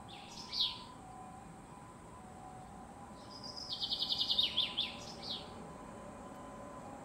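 A small bird calling: a short high call, then a few seconds later a phrase of a rapid high trill of a dozen or so notes ending in a few falling notes.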